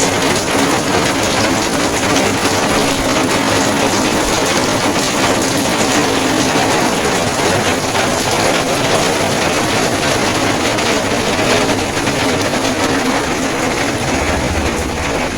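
Heavy rain falling steadily, a loud even hiss, with a low steady hum under it for the first few seconds.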